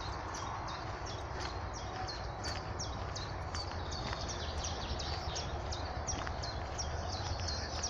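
Birds chirping: a steady run of short, high chirps that each drop in pitch, two or three a second, over a low steady rumble.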